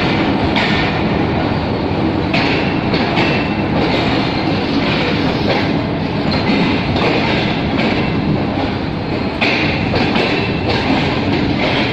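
Train running at speed: a steady rumble and rattle of wheels on the rails, with louder clatters now and then.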